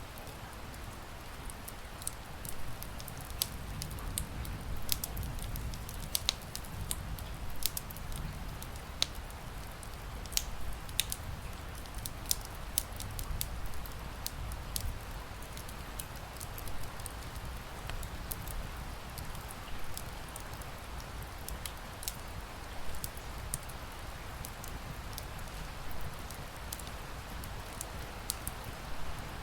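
Wood fire crackling with frequent sharp pops and snaps over a steady hiss of rain. The pops come thickest in the first half and thin out later on.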